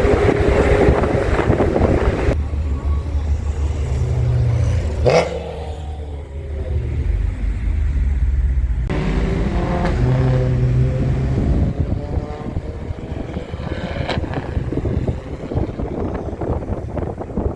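Sports car engines running and revving, with a couple of sharp blips, in several separate stretches that change abruptly.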